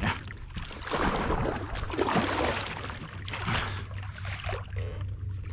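Water splashing and sloshing beside a kayak in several short rushes.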